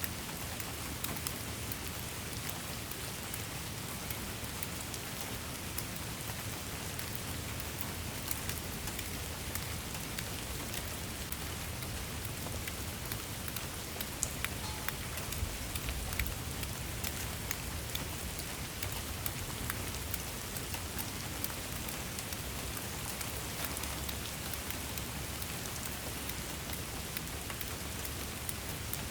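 Steady rain falling, an even hiss with many small drops ticking sharply throughout.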